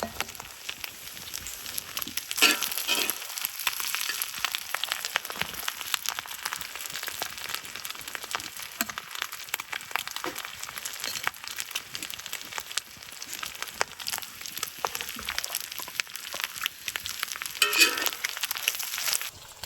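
Dense, continuous sizzling and crackling, as of food frying over heat, with louder bursts about two seconds in and again near the end.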